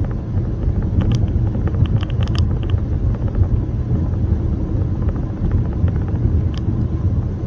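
Steady low road and engine rumble of a car, heard from inside the cabin, with a few light clicks about a second or two in.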